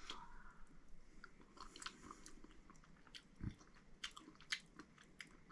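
Faint chewing of a mouthful of rehydrated beef stroganoff, with soft wet mouth clicks and a low thump about three and a half seconds in.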